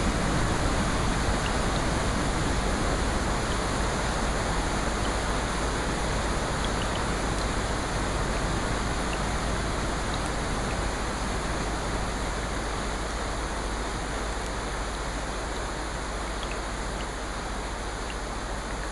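Steady rushing noise of a rain-and-water nature-sounds track, with a few faint ticks, slowly getting quieter.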